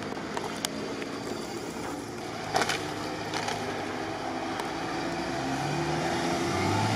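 Jeep Wrangler Rubicon engine running at low speed as it crawls along a sandy forest track, growing louder with its pitch rising toward the end. A few sharp clicks come through, the loudest about two and a half seconds in.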